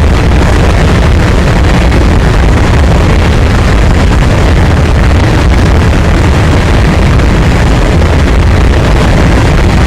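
A passing freight train, rumbling loud and steady without a break.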